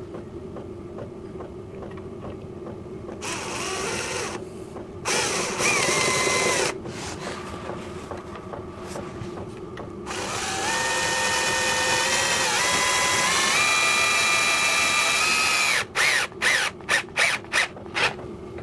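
Power drill driving a screw through a hole in an aluminium bar: a few short runs with the motor pitch rising, then a long run of about five seconds whose pitch steps up, and a series of quick on-off trigger bursts near the end.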